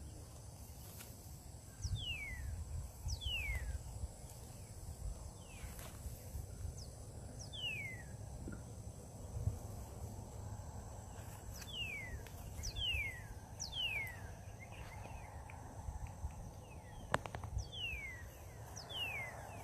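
A bird calling over and over with short whistled notes that slide downward, often two in quick succession, over a steady low rumble.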